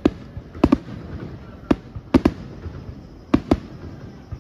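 Fireworks display shells bursting: about eight sharp bangs, several in quick pairs, over a low continuous rumble.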